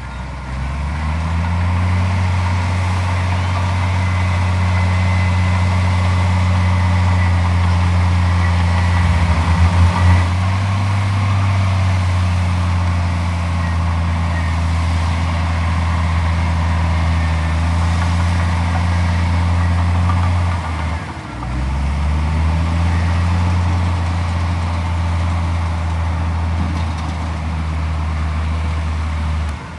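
Heavy machine diesel engine running at high revs. It picks up about a second in, holds steady, dips briefly about two-thirds of the way through before picking up again, and drops off right at the end.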